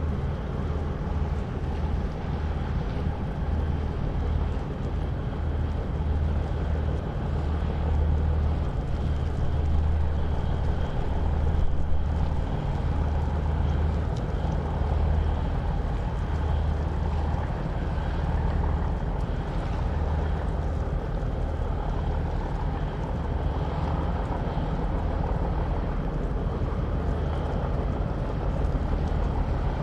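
A river boat's diesel engine running with a steady low drone.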